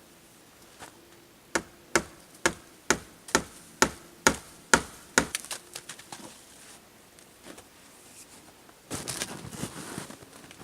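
A quick run of about nine sharp strikes, roughly two a second, then a few lighter taps, followed near the end by a burst of rustling.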